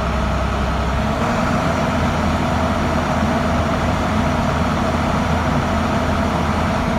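International DT466 inline-six diesel engine in a 2007 International 4300 truck running steadily, run to show that it has no misfires. The engine note changes about a second in, then holds steady.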